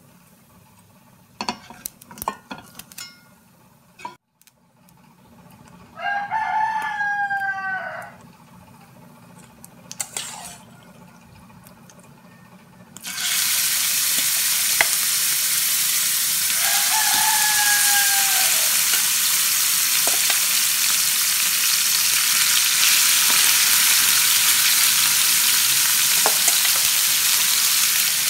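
Chopped onion hitting hot butter in a stainless steel frying pan, starting a loud, steady sizzle about halfway through. Before that the pan is quiet apart from a few spatula clinks, and a rooster crows once loudly and once more faintly a few seconds into the sizzling.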